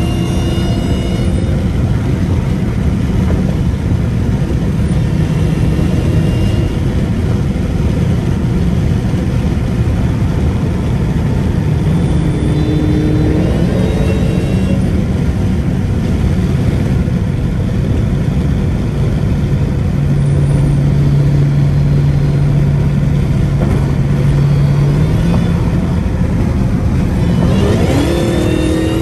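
Dodge Hellcat's supercharged Hemi V8 pulling steadily with a constant low drone and road rumble. Near the end the engine revs up hard, its pitch rising quickly as the car accelerates.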